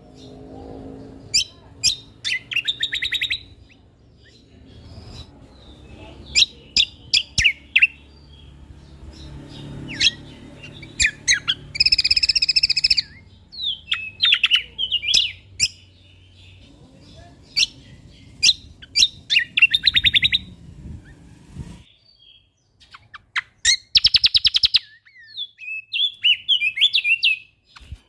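Kecial kombok (cucak kombo) singing in a fast, full song of sharp chirps, rapid trills and short rattling phrases, over a faint low background rumble that stops about three quarters of the way through.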